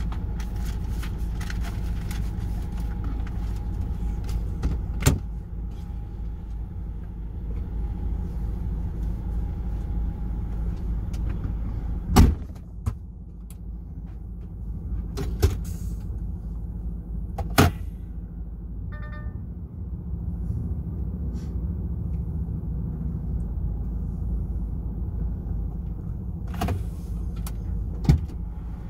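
DAF XF 480 truck's diesel engine running on the road with a steady low rumble, with several sharp knocks or rattles over its course, the loudest about twelve seconds in.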